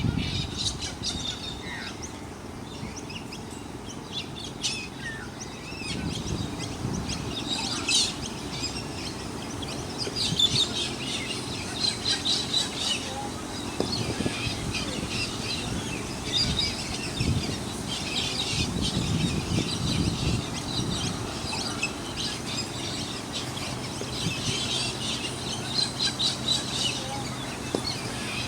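Birds chirping and calling again and again, with a low steady rumble of background noise underneath.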